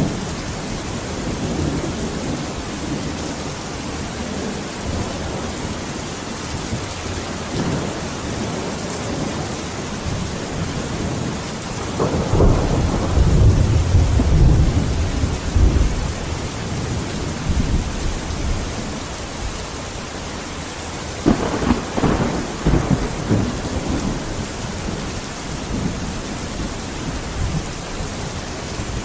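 Steady rain hissing, with two peals of thunder rolling through, the first about twelve seconds in and the second, opening with a sharp crack, about nine seconds later.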